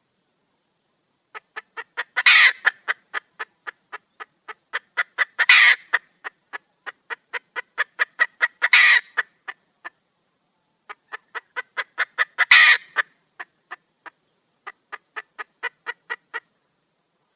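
Red junglefowl hen calling for a mate: a fast, even run of short clucks, about four a second, broken four times by a louder, longer squawk. The clucks pause briefly about ten seconds in.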